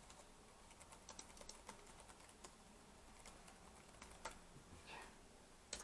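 Faint, irregular clicking of the Lenovo B575 laptop's keys and touchpad as they are pressed, to test them after the keyboard was replaced.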